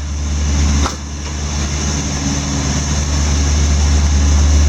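Steady low engine drone and road noise of a vehicle rolling slowly, heard from inside the cabin, with a click about a second in after which the drone eases a little.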